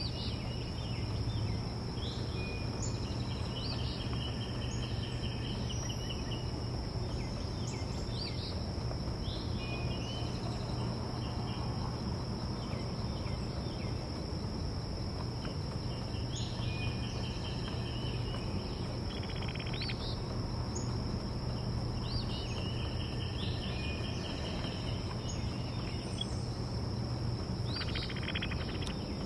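Backyard songbirds chirping and giving short rapid trills on and off, over a steady high-pitched insect drone and a low steady hum of outdoor background noise.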